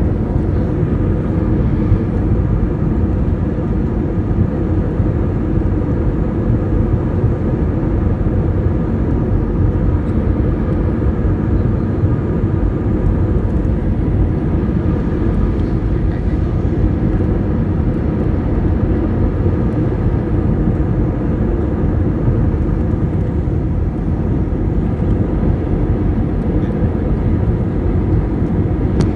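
Airliner cabin noise: the jet engines and airflow making a loud, steady rumble with a faint hum, heard from inside the passenger cabin as the plane descends to land.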